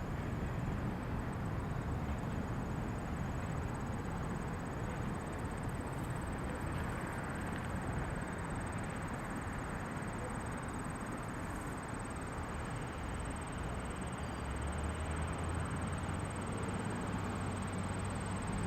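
A train's steady low rumble and rolling noise.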